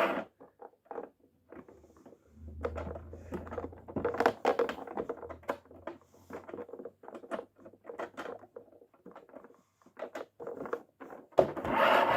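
Irregular light plastic clicks and taps from a toy washing machine and the small plastic balls in its drum, with a brief low hum about two seconds in.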